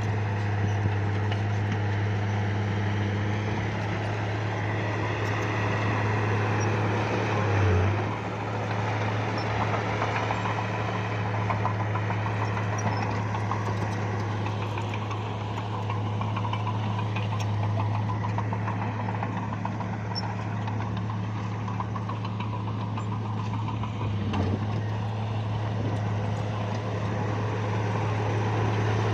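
Bulldozer's diesel engine running steadily with a low, even drone. There is a brief swell and dip in level about eight seconds in.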